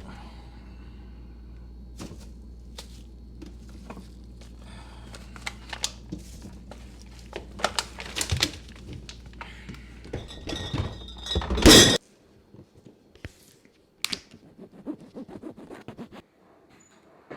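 A run of thuds, knocks and rustling from objects being handled, over a steady low hum. The noises grow busier and peak in a loud clatter just before the middle, where everything cuts off suddenly; a few quieter knocks follow.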